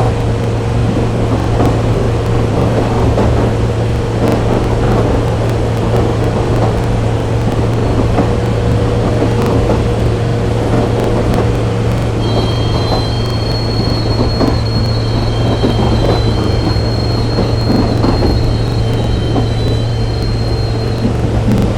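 Train running on the rails: a steady low rumble with many small rattling clicks. From about halfway through, a thin high wheel squeal runs for several seconds, then fades before the end.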